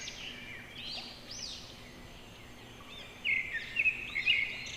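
Faint bird chirps, short rising and falling calls, with a few louder chirps in the second half over a light background hiss.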